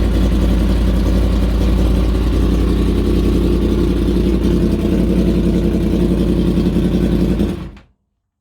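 2017 Yamaha MT-10's 998 cc crossplane inline-four running steadily through a straight-through decat header pipe and Austin Racing slip-on, with no catalytic converter, cutting off suddenly near the end.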